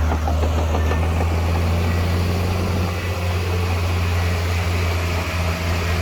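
Heavy diesel engine of earthmoving machinery, a bulldozer or dump truck, running steadily at an unchanging pitch with a deep low hum.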